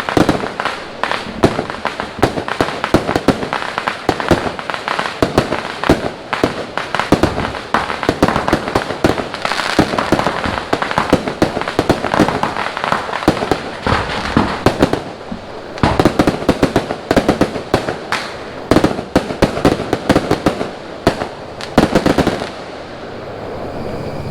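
Fireworks and firecrackers going off in rapid, irregular volleys of sharp bangs and crackles, with a string of louder cracks. About two seconds before the end the bangs stop and a steady hum remains.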